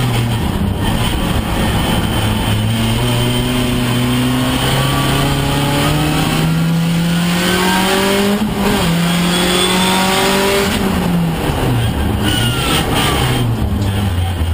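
Opel Astra F's four-cylinder engine heard from inside the cabin, pulling with its pitch rising steadily to high revs and holding there. About eleven seconds in it falls away as the car slows, with a couple of quick rev blips before the end.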